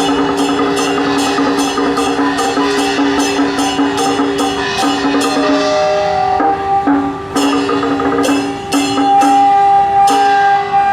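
Traditional temple procession band music: percussion struck about three times a second over held pitched notes. About halfway through, the steady beat breaks into scattered strikes while the held notes carry on.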